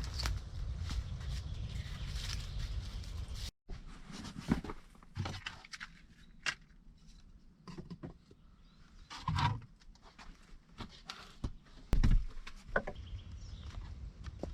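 A steady hiss for the first few seconds that stops at a sudden cut, then scattered footsteps, rustles and knocks of someone moving about outdoors, with a few heavier thumps.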